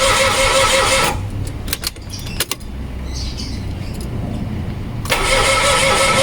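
Starter motor cranking the Mitsubishi Mirage G4's three-cylinder engine, which does not catch. The cranking stops about a second in, a few clicks follow, and cranking resumes about five seconds in. The engine is a crank-no-start, with oil squirted into the cylinders to help them seal.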